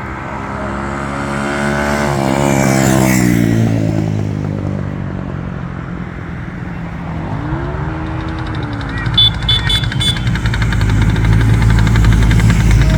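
Motorcycles on the road: one passes by about three seconds in, its engine pitch dropping as it goes, and another engine revs up and back down briefly about halfway through.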